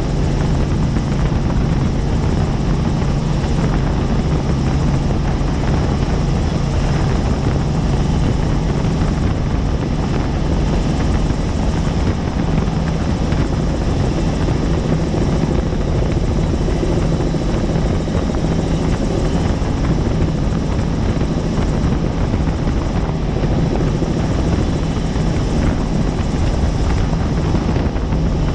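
Helicopter in flight: steady, loud rotor and turbine noise with a constant low hum.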